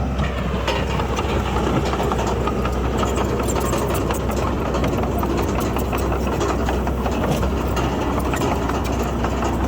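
Komatsu D31PX bulldozer's diesel engine running steadily, with continuous rapid clatter over it.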